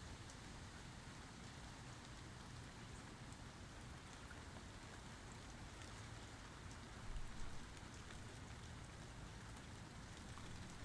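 Steady light rain, a soft even hiss with faint scattered drop ticks, and a brief low thump about seven seconds in.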